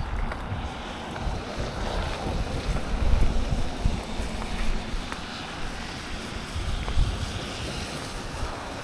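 Wind buffeting the microphone as a mountain bike rolls along, a low rumble that swells and dips, with a few faint ticks.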